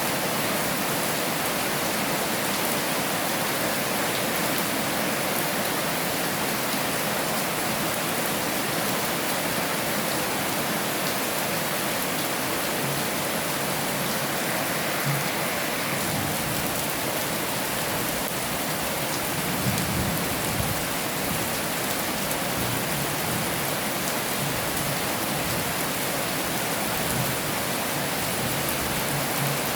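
Heavy rain falling steadily: an even, dense hiss, with a few brief low thuds around the middle and near the end.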